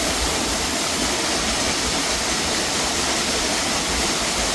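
Steady, even rush of falling water from a rainforest waterfall.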